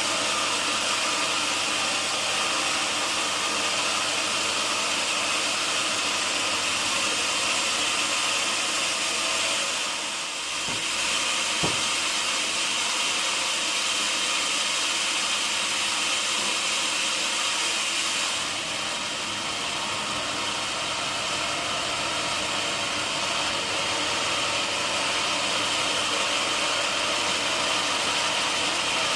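Sawmill machinery running steadily, a continuous loud mechanical noise with a low hum beneath it, easing slightly twice and with one sharp click midway.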